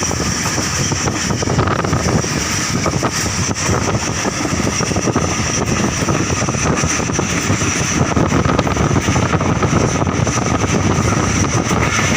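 Steady running noise of a passenger train moving along the track, a constant loud rush with a held high hiss above it.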